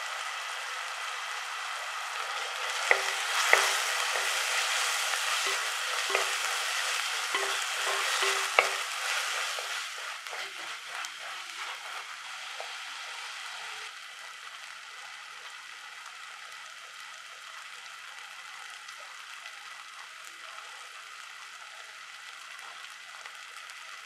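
Shallots, tomato and ginger-garlic paste sizzling in hot oil in a heavy black pot while being stirred with a spatula. Several sharp scrapes and knocks of the spatula against the pot come between about three and nine seconds in. After that the sizzling settles to a quieter, steady hiss.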